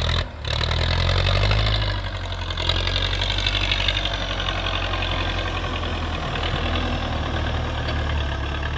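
Tractor's diesel engine running steadily while pulling a plough, with a brief cut-out just after the start.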